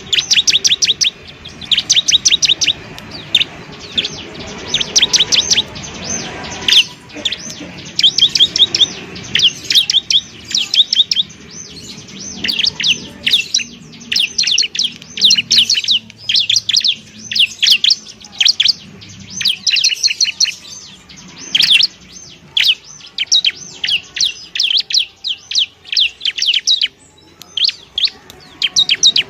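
Bar-winged prinia (ciblek) singing: rapid trills of sharp, high chirping notes in bursts, one after another with only short breaks.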